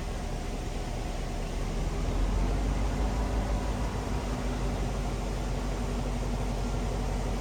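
Diesel-electric locomotive engine of a GP9U running steadily, with a slight rise in loudness about two seconds in as the train gets under way.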